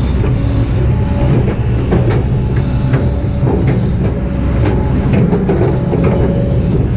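Kobelco SK200-8 hydraulic excavator working: a steady diesel engine drone with irregular metallic clanks and knocks.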